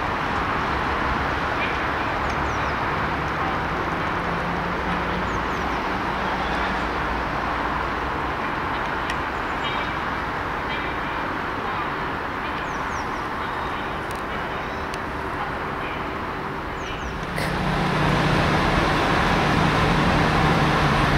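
Steady outdoor railway rumble and hiss as a train approaches from a distance. About seventeen seconds in it jumps louder, with the low engine hum of an approaching diesel multiple unit, a Class 171 Turbostar.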